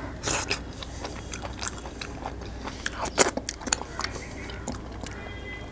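A person chewing a mouthful of mutton and chana dal close to a clip-on microphone: irregular wet mouth clicks and smacks.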